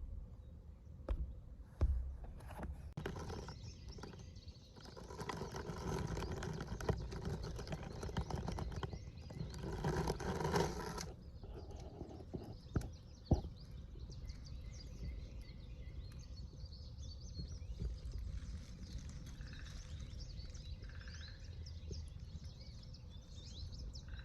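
Outdoor ambience: scattered small bird chirps over a steady low rumble, with a louder stretch of even noise from about three to eleven seconds in and a few clicks.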